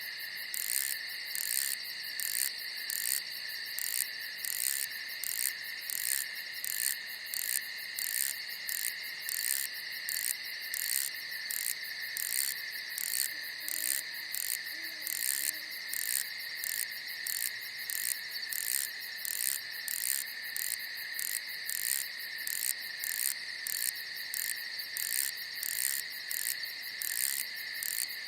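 Night insects chirping in chorus: a steady high trill with an even, rhythmic chirp pulsing about twice a second over it.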